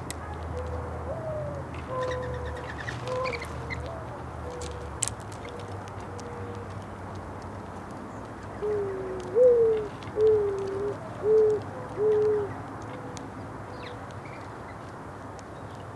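Mourning dove cooing: a louder phrase of a slurred rising-and-falling coo followed by three steady coos in the middle, with softer coos before it. Faint short chirps and small ticks sound in the background.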